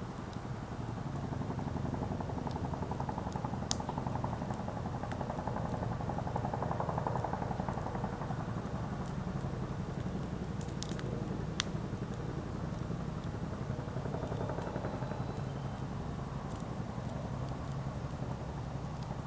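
Wood campfire burning: a steady low rush of flame with scattered sharp pops and crackles from the burning wood, the loudest about 4 and 11 seconds in.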